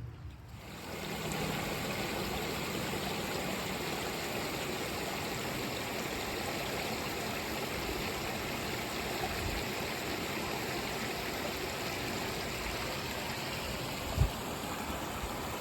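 Swollen creek in flood, water rushing steadily, with a single dull bump near the end.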